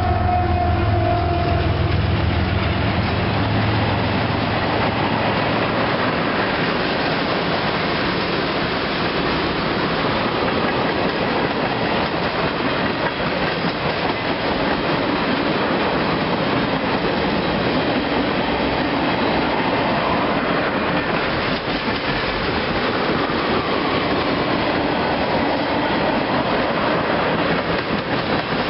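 Empty ethanol unit train of tank cars rolling past with steady rumble and clickety-clack of wheels over rail joints. For the first few seconds the trailing locomotive, an EMD SD70ACe diesel, drones low as it goes by, then fades, leaving only the rolling cars.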